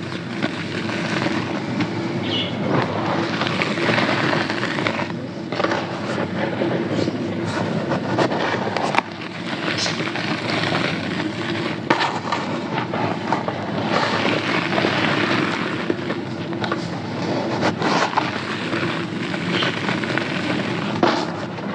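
Dried sand-cement being crushed and crumbled: a dense, continuous gritty crunching and crackling, with a few sharper snaps along the way.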